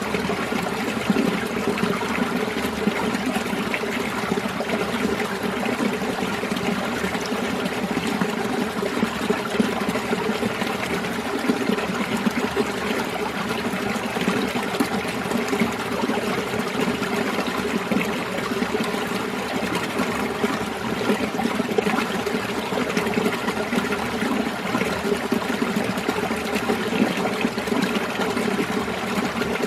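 Winter mountain stream flowing and splashing over rocks among the ice, a steady babbling trickle and gurgle.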